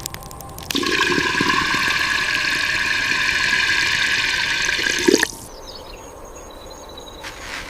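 Water rushing or pouring steadily for about four and a half seconds, then cutting off suddenly.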